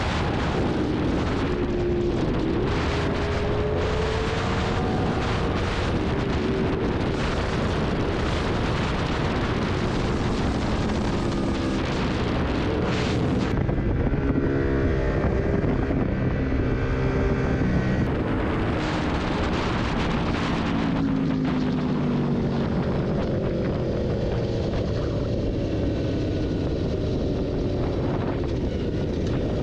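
Sport motorcycle engine revving up and down as it rides through the gears, with wind rushing over the microphone.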